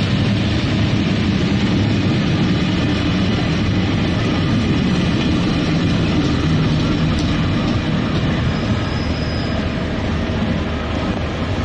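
Passenger coaches of a train rolling past on the rails: a steady, loud rumble of wheels on track that eases a little as the last coaches pull away, with a brief faint high squeal near the end.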